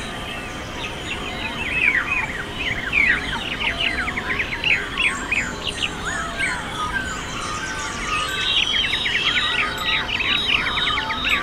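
Many birds chirping and calling at once, a dense chorus of quick, overlapping chirps and downward-sweeping notes that grows busier and louder about two-thirds of the way through.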